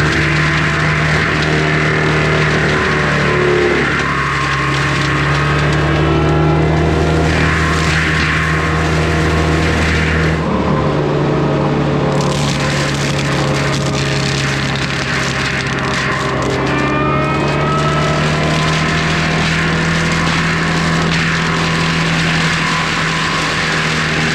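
Skid steer engine running hard under load while its forestry mulcher drum grinds through brush and wood, a steady drone with a brief change in pitch about ten seconds in.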